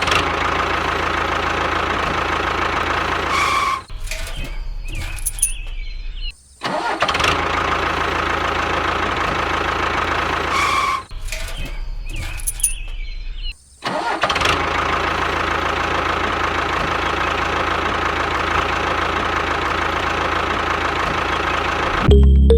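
Tractor diesel engine running steadily, broken by brief cut-outs about four, six and a half and fourteen seconds in. The same stretch repeats, as a looped sound effect does.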